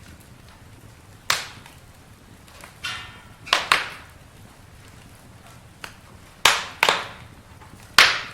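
Campfire wood crackling and popping: about eight sharp pops at irregular intervals over a faint hiss, the loudest near the end.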